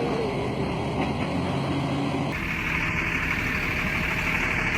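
Heavy vehicle engine running steadily. About halfway through the sound changes abruptly, as at a cut, and a steady high hiss joins the engine.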